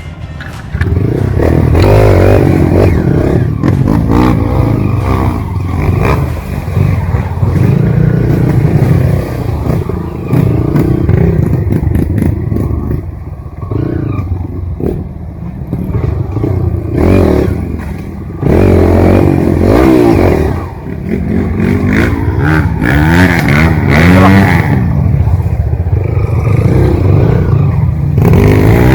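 Trail motorcycle engine revving up and down over and over, the pitch rising and falling in short surges, with clattering and scraping mixed in.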